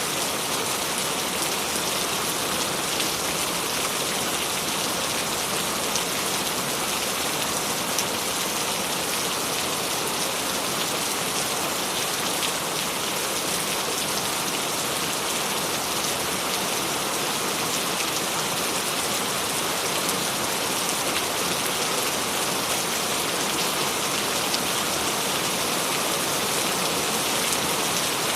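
Steady rain falling on a surface, an even hiss with faint scattered drop patter and no thunder.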